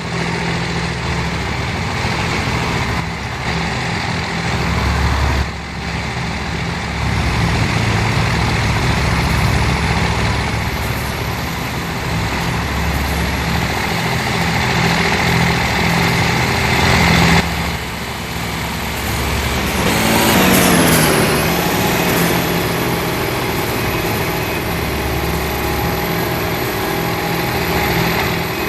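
Truck engines running with a steady low rumble. About twenty seconds in, one engine sweeps down in pitch.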